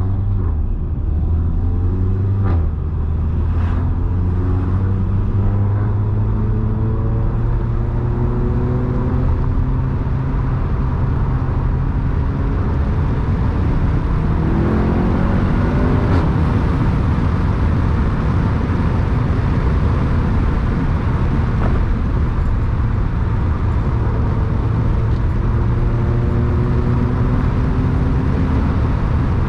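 Seat Leon Cupra 300's turbocharged 2.0-litre four-cylinder, with resonator delete and induction kit, driving under acceleration: the engine note climbs in pitch and falls back several times as it changes gear, with a strong rise and shift about halfway through.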